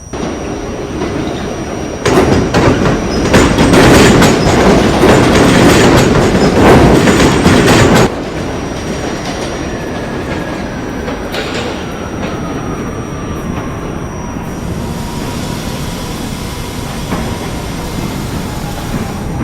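R68A subway train running on the G line, its wheels rumbling on the track, with a much louder rush of noise for about six seconds starting about two seconds in. From about halfway on, the motor whine falls steadily in pitch as the train slows for the next station.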